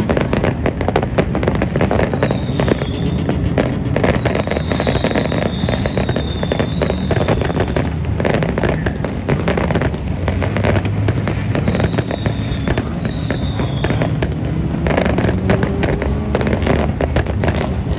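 Fireworks display going off nonstop: a dense, rapid crackle of many small bangs, with a high whistle cutting through a few times.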